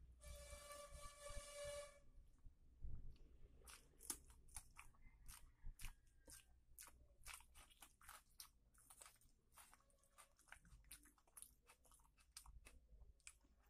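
Close-miked chewing and mouth sounds of a person eating rice and chicken curry by hand: a quiet run of many short wet clicks and smacks. In the first two seconds a brief steady pitched tone sits under it.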